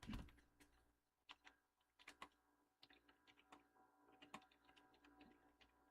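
Faint typing on a computer keyboard: irregular key clicks with short pauses between them.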